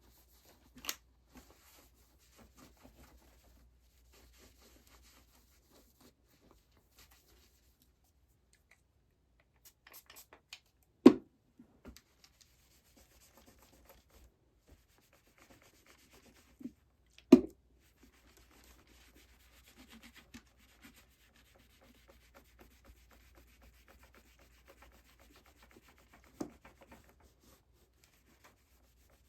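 Hands and tools working on a guitar during string removal and preparation: quiet rubbing and scratching with small clicks, and two sharp, loud knocks about 11 and 17 seconds in. A faint steady hum sits underneath.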